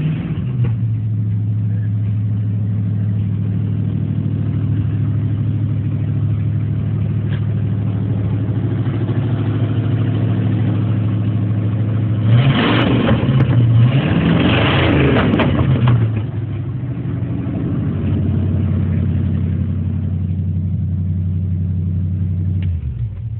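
Built Ford 460 big-block V8 in a 1966 Ford Thunderbird idling loud and steady, revved twice just past the middle, then settling back to idle and shut off at the very end. It sounds healthy.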